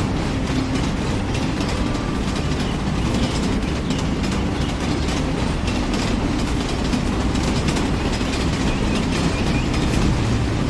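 Heavy machinery running with a steady low rumble and frequent rattling clicks and knocks.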